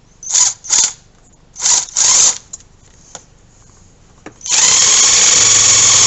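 Power drill-driver tightening a hose clamp on an oil catch can hose: four short bursts of the motor, then one longer steady run near the end as the clamp is drawn nice and tight.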